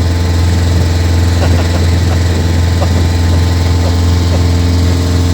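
Small motorboat's engine running steadily under way: a loud, even low hum whose pitch holds steady.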